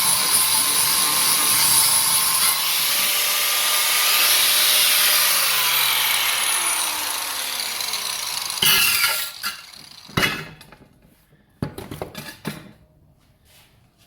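Handheld electric grinder running on the steel rear bumper, its whine sliding down as it slows after about six seconds. Then comes a short loud burst, followed by several sharp knocks on metal.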